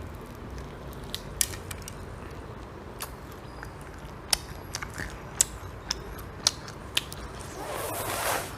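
Crispy fried chicken drumstick being bitten and chewed, giving scattered sharp crunching clicks, followed near the end by a brief hissing swell.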